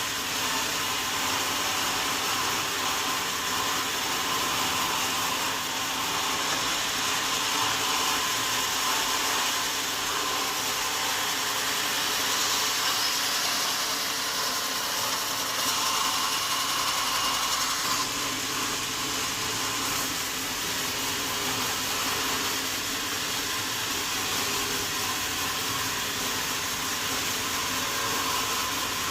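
Sawmill saw cutting through a wadang log, a steady hissing rush with a faint high whine, a little louder around the middle.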